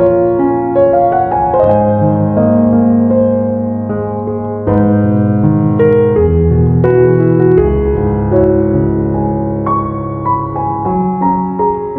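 Background piano music: soft, slow chords and melody notes, each held and overlapping as the harmony changes every second or so.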